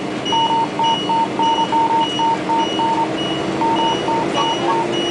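Electronic beeping from two sources at once: a high beep repeating about twice a second throughout, and a lower beep in quick runs that stop near the end. A steady low drone runs underneath.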